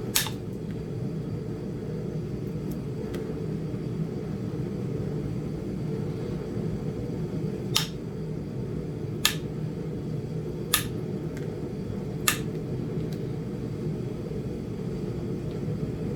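Sharp clicking strikes of indirect percussion on a small Flint Ridge chert biface: a hammer tapping a punch set against the stone's edge. One strike comes right at the start, then after a long pause four more about a second and a half apart, over a steady low hum.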